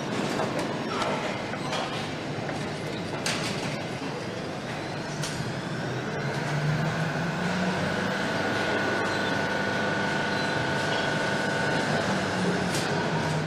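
Factory machinery noise on an assembly line: a steady mechanical hum and a high whine, with scattered clanks and clicks of metal parts and tools.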